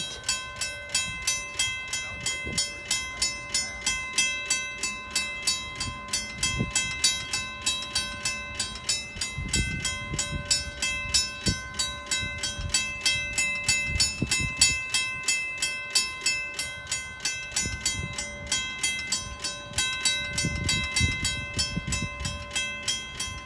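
Mechanical railway crossing bell ringing steadily, about three strikes a second, while the crossing stays activated after the train has cleared: a crossing malfunction. Low rumbles come and go twice underneath.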